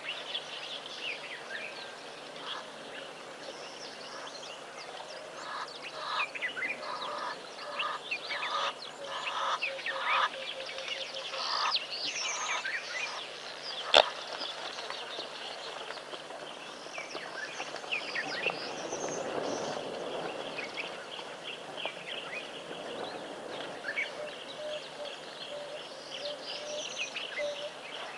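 Wild birds calling and chirping, with a run of evenly repeated call notes about six to eleven seconds in, over a faint steady low hum. A single sharp click about halfway through is the loudest sound.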